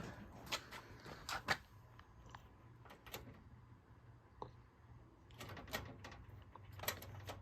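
Scattered light clicks and knocks as a vintage Dayton by Lakewood box fan is handled and its switch worked, with the fan failing to start.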